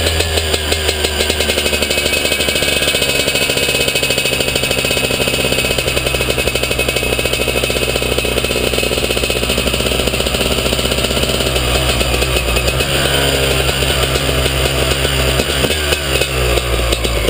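Suzuki RM250 two-stroke dirt bike engine running while riding, picked up close by a camera mounted on the bike. The engine note holds fairly steady, then shifts about twelve seconds in as the throttle changes.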